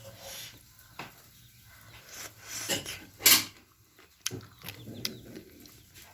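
Sounds of eating chicken soup: a spoon clicking against a dish a few times, with a short loud sip of soup about three seconds in.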